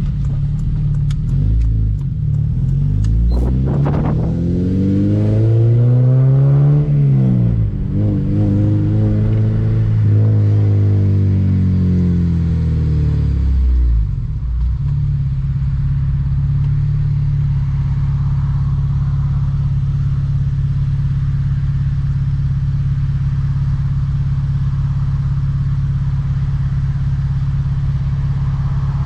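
2007 Honda Civic Si's 2.0-litre four-cylinder engine pulling, its pitch climbing for a few seconds, then falling off gradually. About halfway through it drops and settles into a steady drone.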